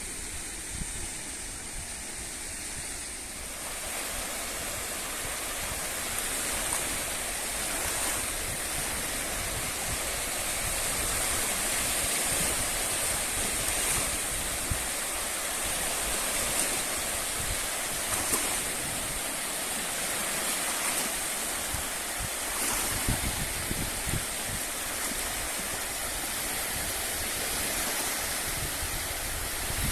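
Steady rushing of sea surf with wind buffeting the microphone; it grows louder a few seconds in and then holds.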